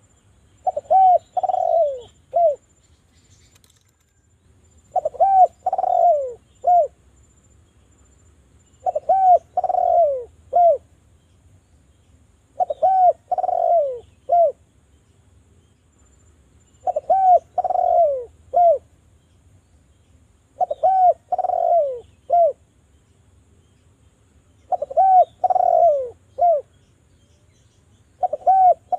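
Spotted dove (derkuku) cooing: the same short phrase of a few quick coos, a longer drawn coo and a clipped final note, repeated about every four seconds, eight times.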